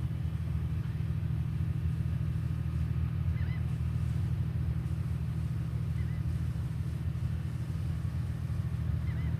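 A steady low rumble, with three faint short chirps about three seconds apart.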